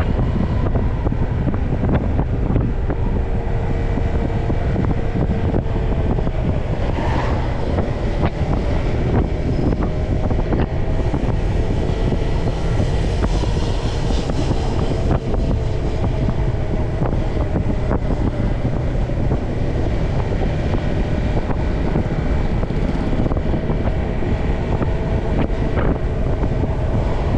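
Motorbike engine running under way, with heavy wind rumble on the microphone and passing traffic noise.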